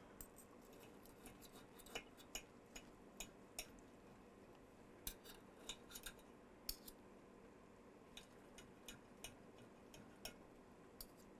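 Faint, irregular clicks and taps of cutlery against a plate, about a dozen, over a low steady room hum.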